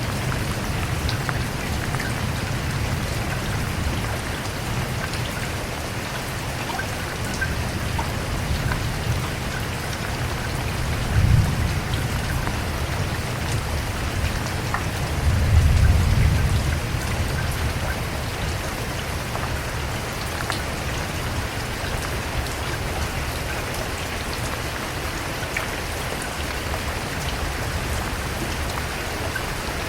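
Steady rain falling, a dense hiss with scattered ticks of single drops. There are two low rumbles, a short one about eleven seconds in and a longer one around sixteen seconds.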